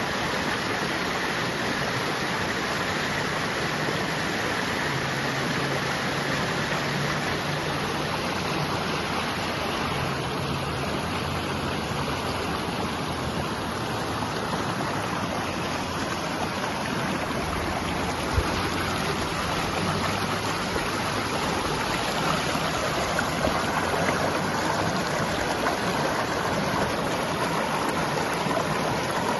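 River water rushing steadily, with one sharp tap about eighteen seconds in.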